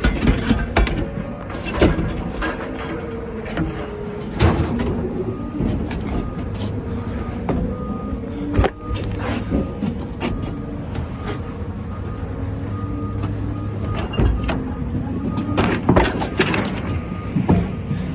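Scrap-yard crane's diesel engine running steadily close by, with repeated loud metal clanks and bangs of scrap being dropped and moved, and a faint beep repeating about once a second.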